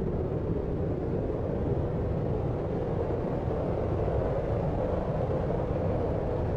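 Steady, deep sleep-aid noise: an even, unchanging hiss weighted toward the low end with little treble and no separate events.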